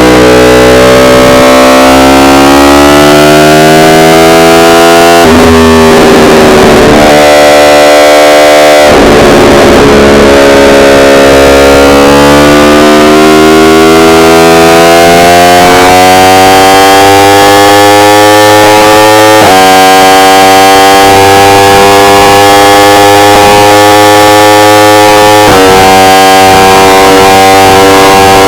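Yamaha R1 inline-four engine running under way, its pitch climbing and falling slowly as the revs change, breaking into a rough, noisy stretch about a fifth of the way in and stepping in pitch twice near the end. The recording is heavily overdriven and distorted.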